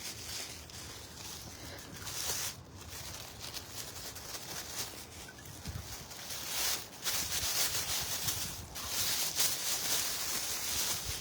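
Footsteps crunching through snow, an uneven run of crisp crunches and rustles that grows a little louder about halfway through.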